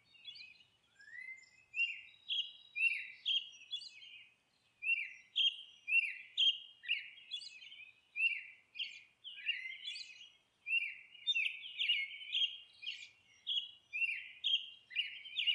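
Small birds chirping: a steady run of short, falling chirps, about two or three a second.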